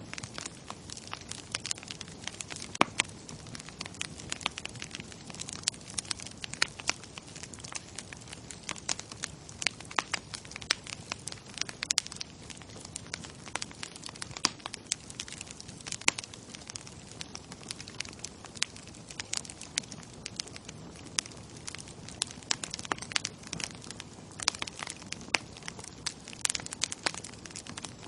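Bonfire crackling: a steady low hiss under dense, irregular sharp pops and snaps of burning wood.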